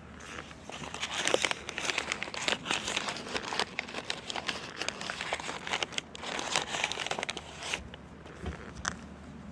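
Chunks of cornstarch being crunched close to the microphone: a dense, crinkly crackling that eases off near the end.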